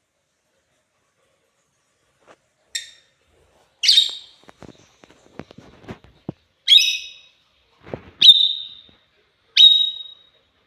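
Pet lovebirds calling: after a quiet start, five short, sharp, high-pitched calls spaced one to two seconds apart, with faint small clicks between two of them.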